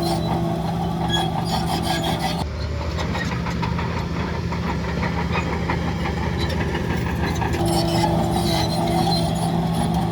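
Heavy diesel earth-moving machinery running steadily under load, with a rattling clatter over the engine. The sound changes abruptly about two and a half seconds in and again near eight seconds.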